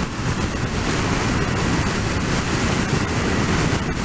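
Steady rush of wind noise around a full-face motorcycle helmet at about 50–60 mph, picked up by a microphone behind the chin guard under a fake-fur windshield, with the helmet's front vent closed.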